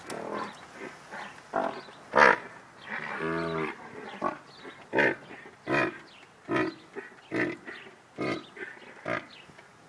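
An animal calling: irregular short calls, one longer low, steady-pitched call about three seconds in, then a regular series of short, sharp calls a little under a second apart.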